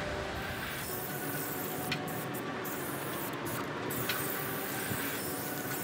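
Aerosol spray-paint can hissing in bursts with short breaks, after a low rumble in the first second or so.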